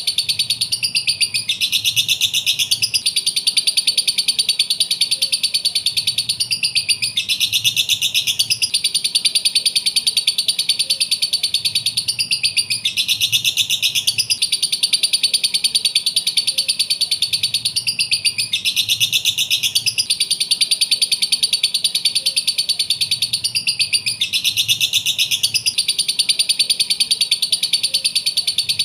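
Lovebird chattering in a rapid stream of shrill chirps, a short recording looped over and over about every six seconds.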